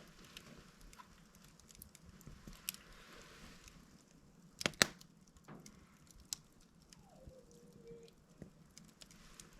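Burning log in a fireplace crackling, with scattered small pops over a faint hiss and two sharp, loud cracks in quick succession about halfway through. A short whistle falls in pitch and then holds briefly a couple of seconds later.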